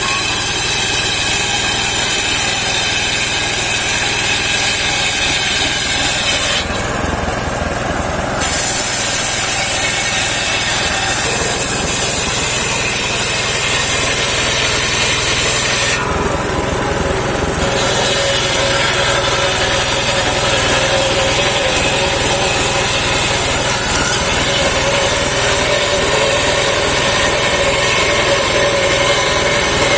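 Homemade engine-driven circular sawmill running, its blade cutting through a rain tree (saman) log with a steady, loud sawing noise over the engine hum. The high cutting sound drops out briefly twice, about 7 and 16 seconds in.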